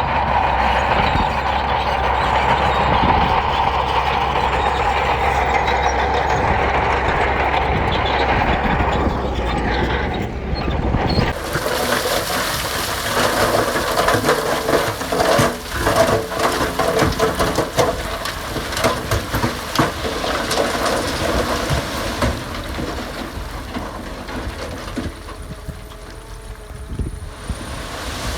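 Heavy diesel earthmoving machinery at work: an engine running steadily, then, after an abrupt change about eleven seconds in, a busier stretch of clanks and rattles over the engine.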